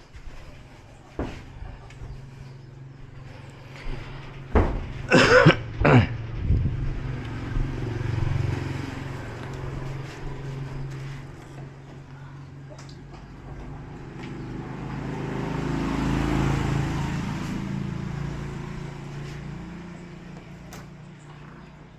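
A person coughs a few times about five seconds in. Later a motor vehicle passes, its engine hum and road noise swelling and then fading.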